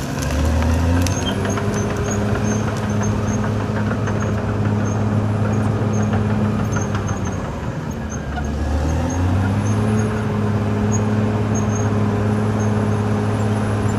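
Caterpillar D6R XL bulldozer's diesel engine running steadily under load, its pitch dipping briefly and climbing back near the start and again about eight seconds in.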